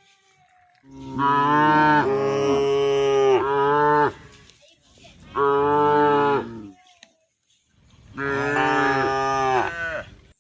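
Cow mooing loudly three times in long drawn-out calls, the first and longest lasting about three seconds, the last wavering in pitch near the end: a cow calling to the herd.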